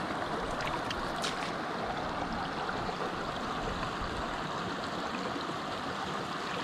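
Small mountain stream flowing over rocks: a steady, even rush of running water.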